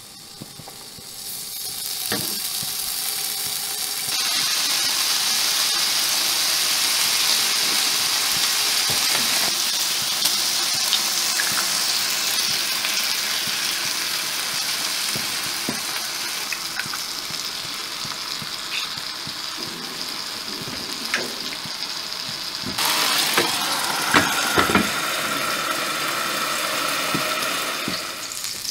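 Bacon and eggs sizzling in a frying pan over a gas burner, the sizzle building over the first few seconds and jumping louder about four seconds in. Near the end come a few sharp knocks.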